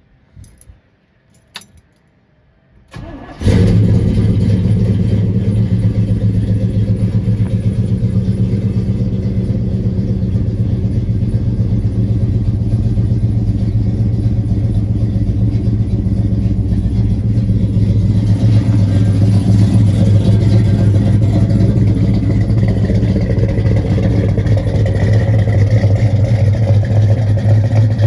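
A few light clicks, then an engine cranks briefly and catches about three seconds in, settling into a steady idle. A cold start after the engine has sat for two days.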